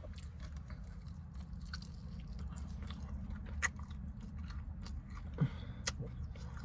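Close-up chewing and biting of saucy fried chicken wings, with soft wet mouth sounds and a couple of sharp clicks, over a low steady hum.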